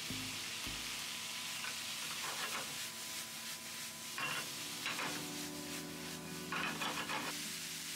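Pork-and-vegetable stir-fry sizzling in a frying pan over a high gas flame. The pan is tossed a couple of times, giving louder rushes of sizzle and scraping in the second half.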